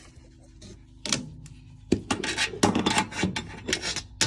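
Metal parts of a gas water heater's burner assembly knocking and rattling as they are fitted back into the combustion chamber: a few separate knocks, then a quick run of clattering from about halfway through.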